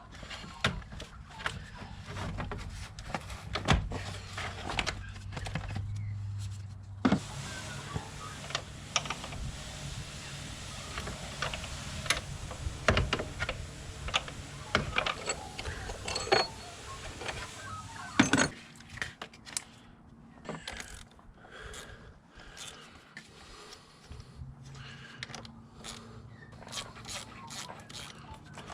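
Irregular clicks, knocks and rattles of hands and tools working on plastic and metal parts in a car's engine bay as the air filter box is taken apart and pulled out. A louder knock comes a little past halfway.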